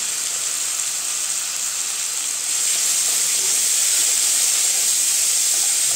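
Cabbage, rice and spices frying in hot mustard oil in a kadai: a steady sizzling hiss that grows a little louder about two and a half seconds in as the mixture is stirred.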